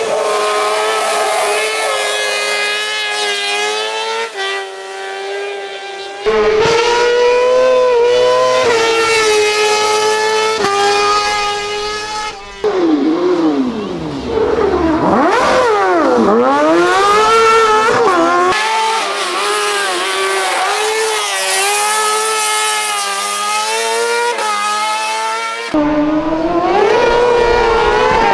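600 cc kartcross engines revving hard at very high rpm, with the pitch climbing and dropping through gear changes, in several short clips one after another. Near the middle, the engine note sweeps steeply down and up several times.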